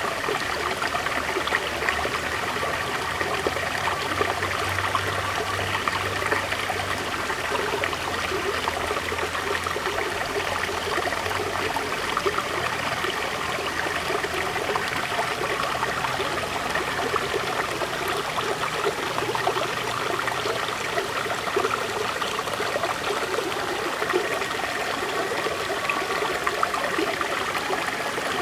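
River water flowing steadily over rocks, a continuous rushing and trickling.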